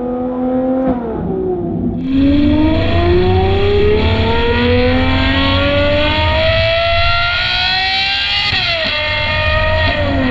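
Ferrari 812 GTS's 6.5-litre V12 through a Novitec Inconel exhaust. The note drops about a second in, then rises steadily for about six seconds as the car pulls hard through one gear, and falls away again near the end.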